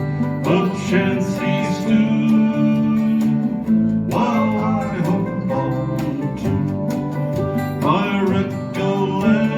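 Live acoustic folk band playing: acoustic and steel-string guitars, mandolin, bass and percussion.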